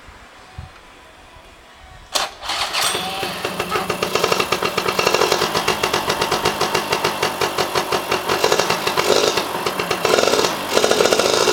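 EZ-9 engine, fed with petrol poured straight in because its carburettor is clogged, starting about two seconds in and catching at once, then running with rapid even firing pulses and getting louder near the end as it revs up. It runs cleanly with no abnormal noise.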